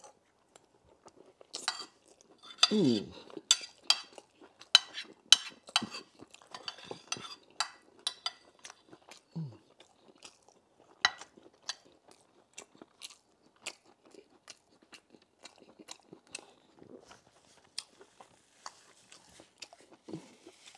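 Close-miked chewing of a mouthful of rice with many wet mouth clicks and smacks, and a metal spoon tapping and scraping on the plate. Two short falling hums, about three seconds in and again near ten seconds.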